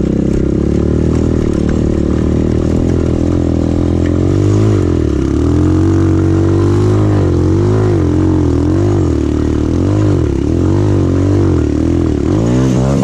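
200cc Avantis pit bike's single-cylinder engine running, first steady, then revving up and down about once a second under the throttle.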